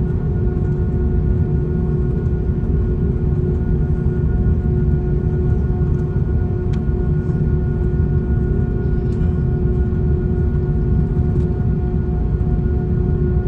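Airbus A340-600 heard from the passenger cabin with its Rolls-Royce Trent 500 engines running: a steady low rumble with a constant whine above it.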